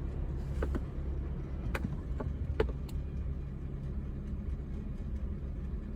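Car engine running, heard from inside the cabin as a steady low rumble, with a faint hum that stops about four seconds in and a few light clicks.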